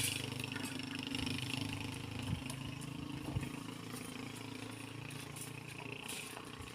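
A motor engine running steadily at idle, with a few faint knocks about one, two and a half and three and a half seconds in.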